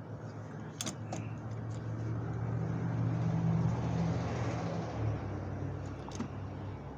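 A motor vehicle passing by: a low engine hum and road noise that build up, peak around the middle and fall away about five seconds in. A few light metallic clinks come on top, about a second in and again near the end.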